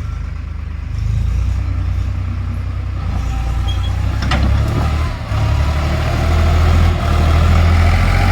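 Eicher 5660 tractor's diesel engine running with a steady low rumble that grows gradually louder, with a single sharp clank about four seconds in.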